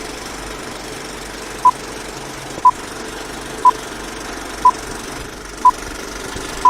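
An engine running steadily, with six short, loud beeps of one pitch, one each second, starting about a second and a half in, like a countdown.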